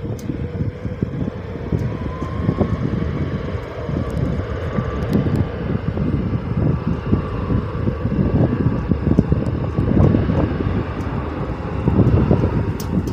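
Airplane engines running with a faint steady whine, under heavy wind buffeting on the microphone.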